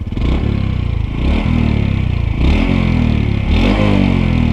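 Honda CT125's 125 cc single-cylinder engine through its stock exhaust, revved up from idle in repeated throttle blips: the pitch rises and falls about three times.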